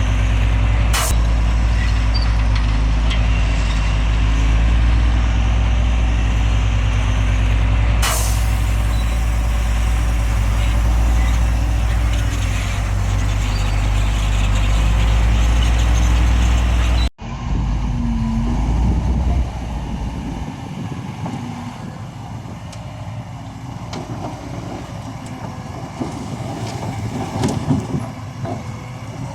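Heavy diesel engine of earthmoving machinery running loud and steady, with two sharp hissing bursts about one and eight seconds in. After an abrupt cut, a quieter, rougher machine sound follows and drops further a couple of seconds later.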